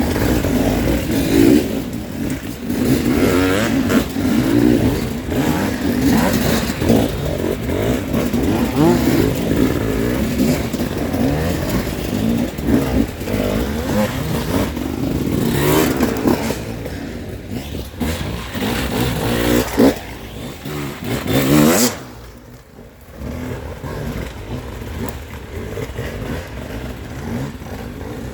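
Enduro dirt bike engines revving hard and unevenly as riders climb a steep, muddy ravine, pitch rising and falling with throttle blips. There is a loud surge just before the 22-second mark, then a brief drop in level and steadier running after it.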